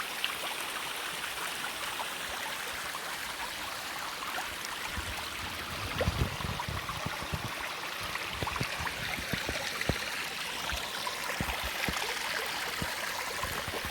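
Steady rush of a waterfall and its creek water running over rocks, with a few short low thumps from about five to seven seconds in.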